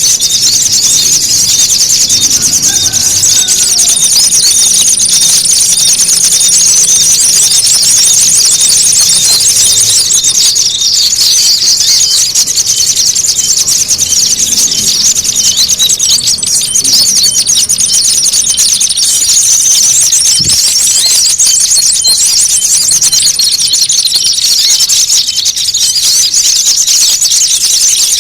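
Small birds giving loud, agitated, high-pitched chattering calls over and over as a dense unbroken mass: a bird-lure ('pikat') call track for attracting small songbirds.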